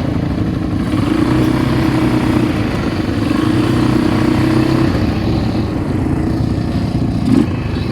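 ATV engine running while riding, its note shifting up and down with the throttle.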